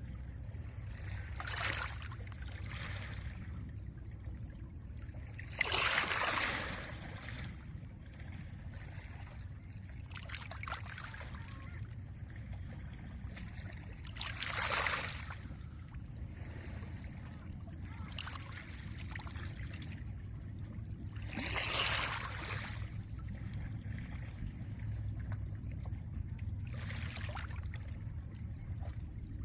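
Small lake waves breaking on a pebble shore, each one a hissing wash of water over stones that swells and fades every four to five seconds. The strongest breaks come about six, fifteen and twenty-two seconds in, over a steady low rumble.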